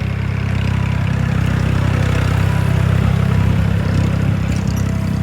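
Massey Ferguson tractor engine running steadily with a deep, even drone while pulling a bush hog rotary cutter.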